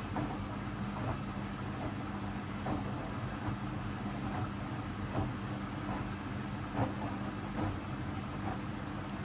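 Hoover DXOA610AHFN-80 front-loading washing machine mid-wash: the drum motor hums with a steady tone, and soft irregular thuds come from the laundry tumbling in the drum.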